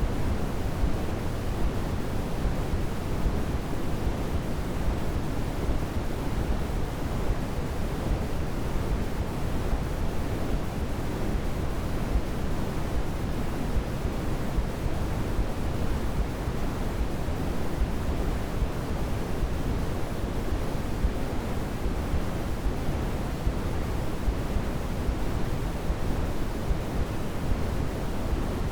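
Steady white-noise sleep sound for babies: an even, deep rushing hiss with more weight in the low end than the highs, unchanging throughout.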